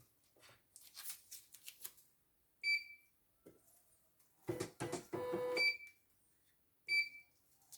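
Three short electronic beeps from a portable computerized embroidery machine's control panel, with handling clicks and rattles between them.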